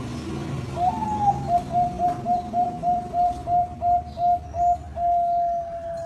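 Zebra dove (perkutut) singing its contest song: a slightly higher opening note, then about a dozen short, even coos at roughly three a second, slowing a little, ending in one long held coo.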